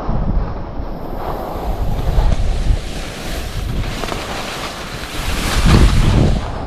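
Strong wind buffeting the microphone as a skier rides down in the rain: a heavy low rumble with a rushing hiss over it, swelling loudest about five and a half seconds in.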